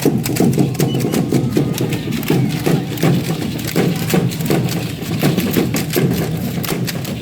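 Matachines dance: a quick, steady clatter of the dancers' rattles and stepping, several clicks a second, over a pulsing low drumbeat.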